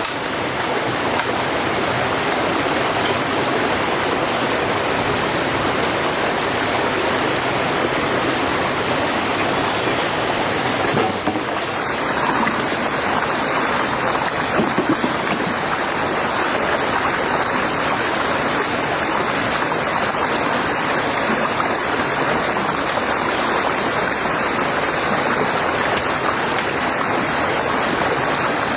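Heavy rain falling steadily, a dense, even hiss with a short dip about eleven seconds in.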